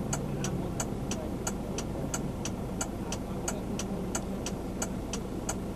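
Turn-signal relay clicking in a car cabin, an even tick about three times a second, over the low steady running of the engine.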